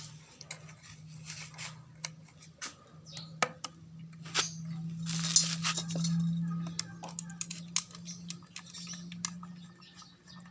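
Scattered light clicks and taps of tools and small metal parts being handled during a grass cutter repair. Under them runs a steady low hum that swells for a couple of seconds in the middle.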